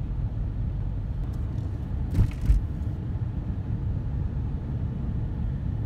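Car driving along a road, heard from inside: a steady low rumble of engine and tyres, with a couple of short bumps a little over two seconds in.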